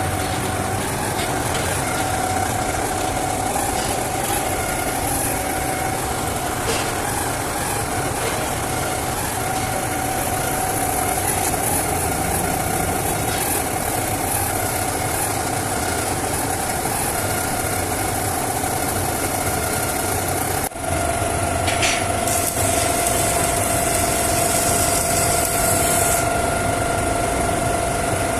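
Steady machine drone in a metal workshop, with a constant hum over a rough noisy hiss; it breaks off for an instant about 21 seconds in and resumes at a slightly different pitch.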